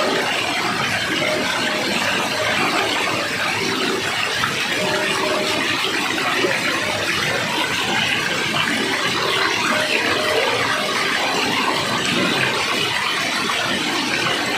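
Water rushing and splashing in a steady, unbroken stream, as from a waterfall.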